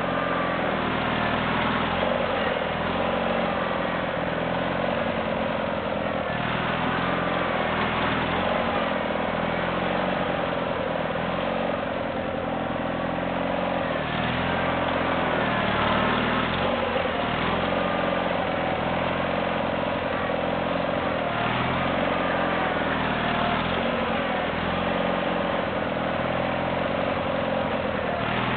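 Ariens GT17 garden tractor engine running continuously while plowing snow, its pitch rising and falling every few seconds as the tractor is worked forward and in reverse against the heavy snow.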